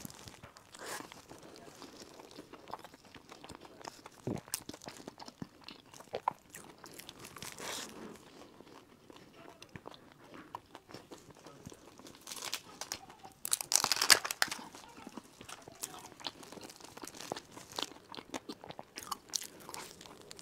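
Close-miked eating of a sesame-crusted filled bun: soft chewing with small crisp crunches, and a louder spell of crunching about two-thirds of the way through.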